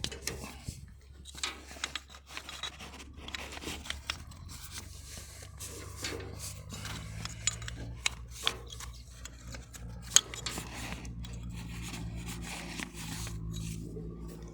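Scraping, rubbing and sharp clicks of hand work on metal parts, with a steady low hum underneath that grows stronger about halfway through.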